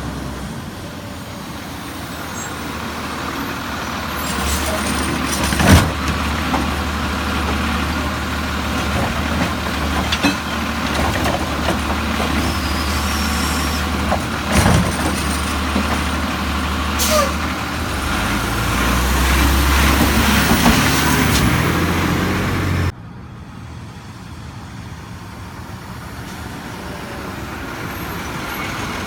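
Automated side-loader garbage truck with a Rapid Rail arm at work: its diesel engine runs steadily, with a few sharp metallic bangs and an air-brake hiss. The engine sound swells for a few seconds about two-thirds through, then drops suddenly to a quieter running truck.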